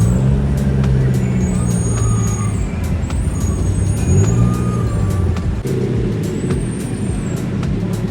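Motor vehicle engines running, their pitch rising and falling, with a thin high squeal that comes and goes several times.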